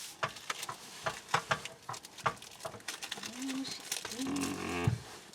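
Quick clicks and scrapes of food and utensils being handled for sandwich-making, then a short low voice-like sound twice near the end.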